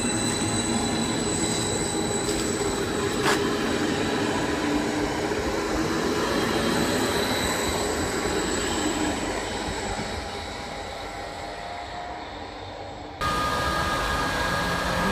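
ODEG double-deck electric multiple unit passing at speed: steady rail rumble and wheel noise with a high ringing tone, one sharp click about three seconds in, then fading away. Near the end it cuts abruptly to a DB class 182 electric locomotive hauling double-deck coaches, its electric drive whining with steady tones.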